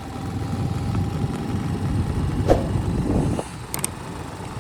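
Motorcycle running along a ride, its low rumble growing louder over the first few seconds and dropping away about three and a half seconds in.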